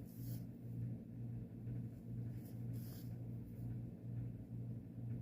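A few brief soft rasps of embroidery floss being drawn through cross-stitch fabric, over a steady low hum that pulses about twice a second.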